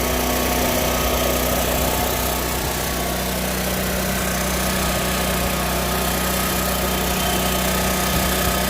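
Portable gasoline generator running steadily at a constant speed, an even engine hum with no change in pitch.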